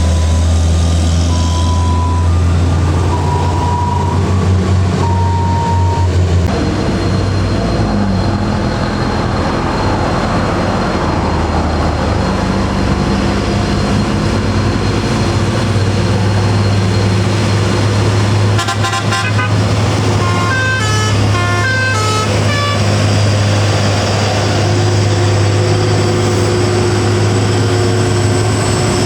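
Heavy truck engine running steadily as it climbs. Short horn tones sound in the first few seconds, and a quick run of horn notes at changing pitches comes about two-thirds of the way through.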